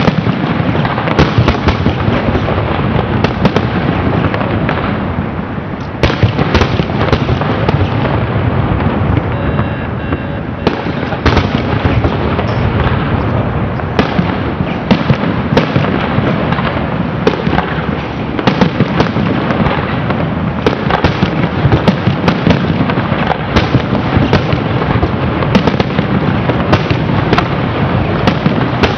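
Aerial fireworks shells bursting in rapid succession: a loud, near-continuous barrage of bangs.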